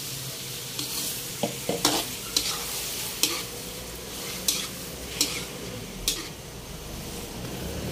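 Freshly added squid sizzling with garlic, ginger and tomato in a hot wok while a spatula stirs it: a steady frying hiss with about seven sharp scrapes and knocks of the spatula against the pan.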